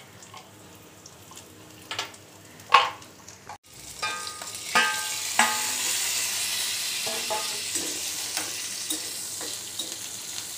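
Spices, green chillies and ginger sizzling in hot oil in a metal wok while a metal spatula stirs them, clinking and scraping against the pan. A few sharp knocks come in the first few seconds; from about four seconds in the sizzling is loud and steady, with ringing clinks of the spatula on the wok.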